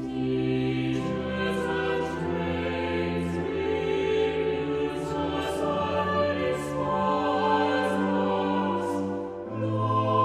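Choral music: a choir singing slow, sustained chords that change every second or so, with the hiss of sung consonants.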